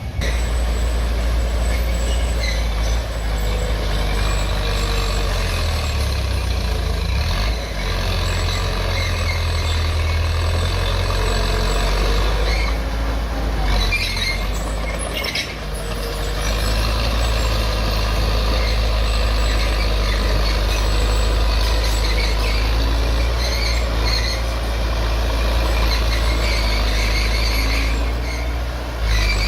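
Heavy diesel earthmoving machinery running steadily under work, a deep, continuous engine rumble with a brief dip about halfway through.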